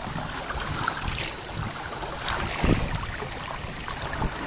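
Wind rumbling on the microphone and water washing and hissing along the hull of a kayak under sail, with a stronger gust a little past halfway.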